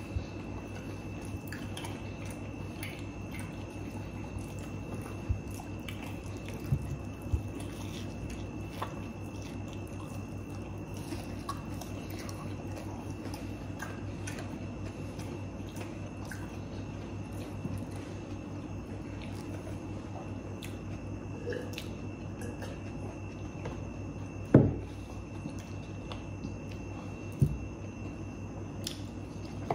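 Mukbang eating sounds: chewing and biting food close to the microphone, with small wet mouth clicks and smacks over a steady hum. A couple of louder thumps come near the end.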